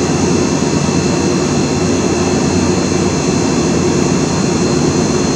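A steady, unbroken droning noise with a faint high whine, typical of a fan or air-handling machine running.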